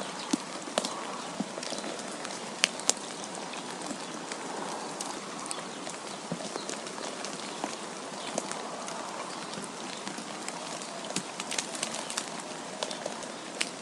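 Wind blowing with a steady hiss, and many scattered sharp ticks of falling snow striking a surface.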